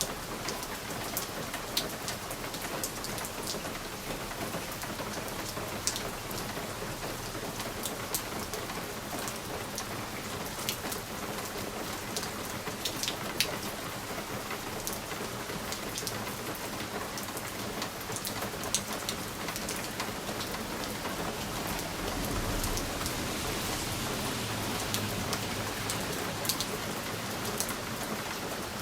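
Steady rain pattering on a window pane, with frequent sharp ticks of individual drops striking the glass. A low rumble swells about two-thirds of the way through and fades again.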